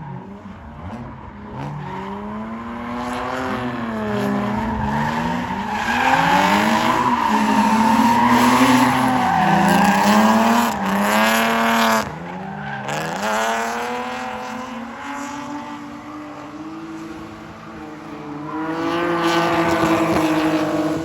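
Car engines revving up and down. The revs climb steeply to a high pitch and drop off abruptly about halfway through, and are held high again before falling away near the end.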